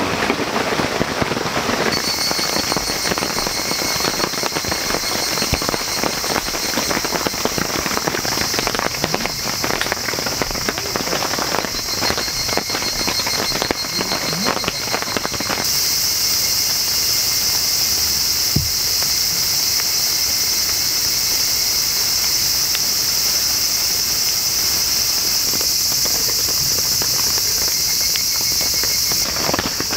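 Steady rain falling, with many small drop sounds over the first half. About halfway through it turns into a louder, even hiss that holds until near the end.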